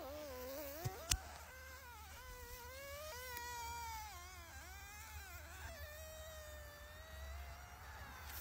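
Dog whining in a long, wavering cry that rises and falls in pitch, with two sharp clicks about a second in.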